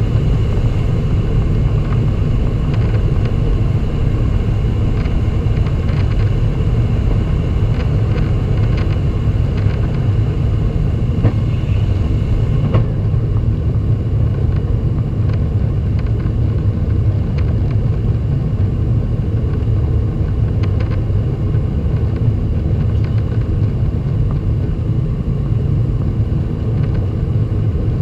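Boeing 767-300 airliner heard from inside the cabin during takeoff: a loud, steady jet-engine and airframe rumble. A faint high hiss drops away about halfway through.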